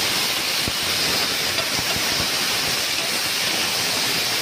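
Freshly added chopped tomatoes sizzling in hot oil in a steel kadhai: a loud, steady hiss as their juice flashes to steam.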